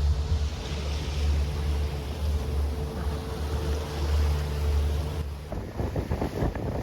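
A boat's motor running steadily under wind and water noise. About five seconds in, the motor's steady note drops away and gusty wind buffeting on the microphone comes to the fore.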